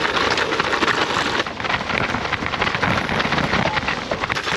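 Bike rattling and its tyres rumbling over frozen, rock-hard bumpy ground, a dense crackle of many small knocks, with wind buffeting the microphone.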